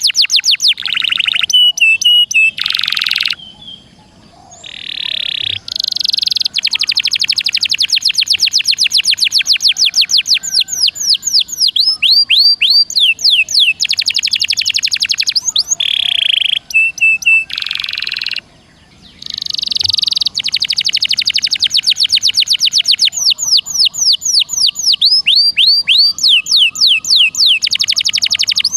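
Songbird singing loud, fast trills of rapidly repeated high notes, broken by short buzzy notes, with two brief pauses.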